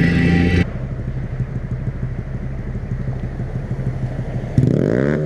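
Honda Grom's small single-cylinder engine running at idle, then revving up about four and a half seconds in and holding at the higher speed. Background music stops shortly after the start.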